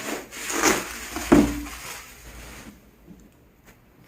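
A box being opened by hand: scraping and rustling of the packaging, with a louder knock about a second and a half in, then only light handling.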